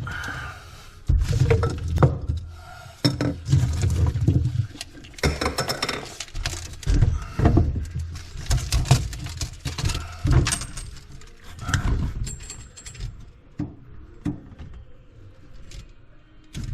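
Tools and metal parts being handled: an irregular run of clinks, clanks and knocks, mixed with dull low thuds.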